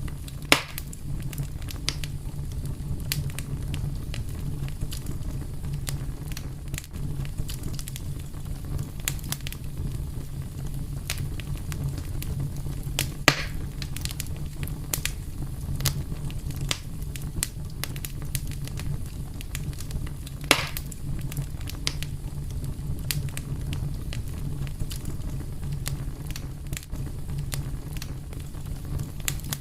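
Wood fire burning with a steady low rumble and scattered sharp crackles and pops; three louder pops stand out, about half a second in, about halfway through, and about two-thirds of the way through.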